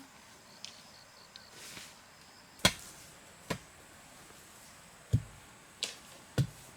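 Five sharp, irregularly spaced blows of a tool striking bamboo or wood, starting a couple of seconds in.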